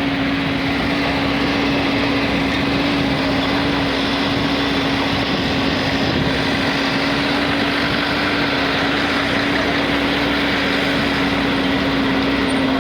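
Steady drone of a running vehicle engine, a constant hum over broad rushing noise, with the hum's pitch dipping slightly near the end.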